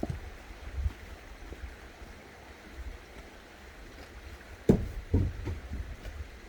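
A few dull knocks over a steady low rumble. The loudest knock comes about three-quarters of the way in and is followed quickly by several smaller ones.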